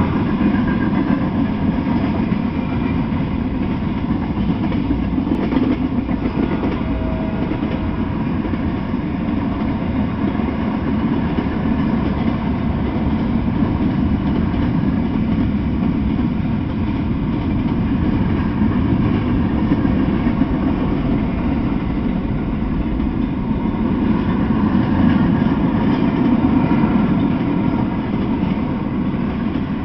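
Freight train cars rolling past: a steady rumble of steel wheels on rail, swelling slightly a little before the end.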